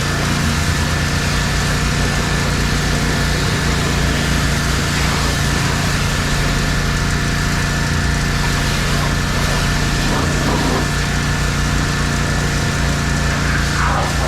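Small engine of a mobile pressure-washing rig running steadily, with an even hiss of spray over the top.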